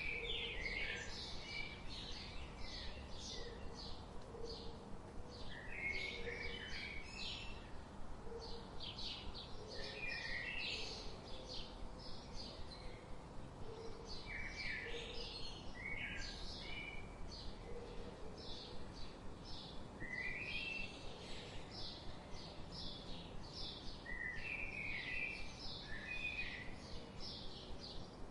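Songbirds chirping and twittering in rapid runs of short high notes that come in clusters every few seconds, over soft low calls and a steady background hiss.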